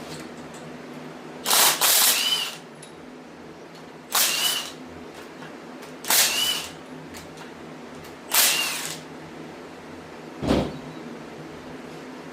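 Power tool run in four short bursts about two seconds apart, each with a whine that rises then falls, as it loosens the remaining head bolts on a Chevy 350 small-block. A single knock comes near the end, over the steady hum of a shop fan.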